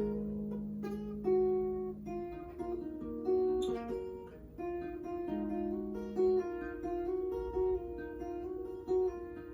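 Solo acoustic guitar played fingerstyle: a steady run of plucked melody notes over held bass notes.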